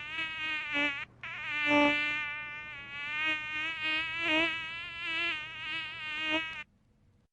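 A mosquito's wings buzzing in flight: a thin high whine that wavers in pitch and swells and fades as it flies close and away. It breaks off briefly about a second in and stops near the end.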